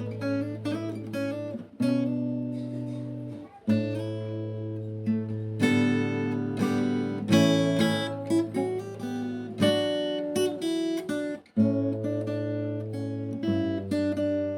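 Background music of acoustic guitar playing plucked and strummed chords that change every second or two.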